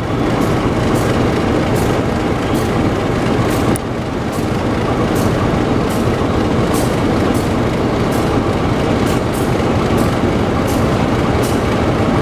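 Diesel railcar running slowly over station points, with a steady engine rumble and repeated sharp clicks, about one or two a second, as the wheels cross rail joints and switches.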